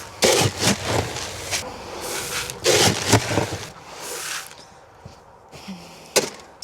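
Poultry feed being handled and poured into a feeder: repeated bursts of rustling, rattling grain with clattering knocks, and one sharp knock near the end.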